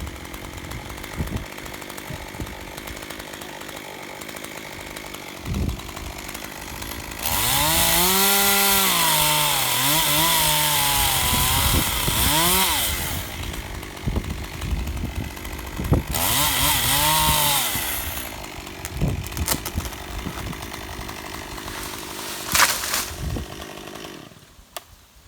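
Chainsaw running and cutting in two stretches, one of about five seconds and a shorter one of about two seconds, its engine pitch rising and dipping as it works. Between the cuts there is a low, gusty rumble of wind on the microphone.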